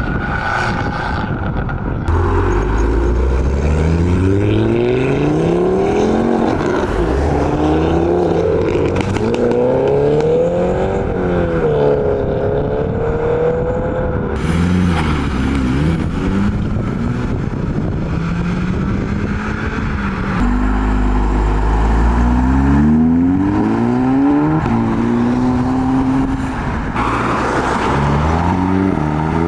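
Modified cars accelerating away one after another, their engines revving up in rising sweeps that drop back at each gear change. The runs are loud, and one gives way to the next with sudden changes in the engine sound.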